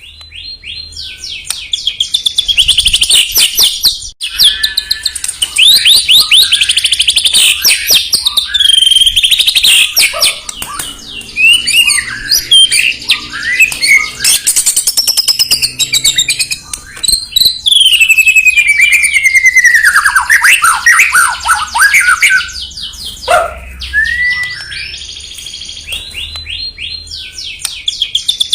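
White-rumped shama (murai batu) singing a loud, continuous, varied song of fast trills and chatter mixed with long whistles that slide down in pitch, starting abruptly out of silence.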